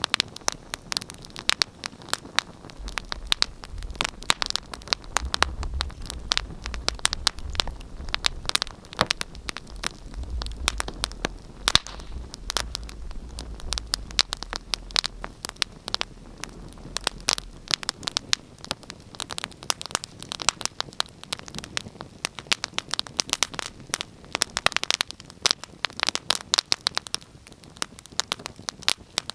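Wood fire crackling in a fireplace: dense, irregular sharp pops and snaps, several a second, over a soft hiss, with a low rumble underneath for the first half.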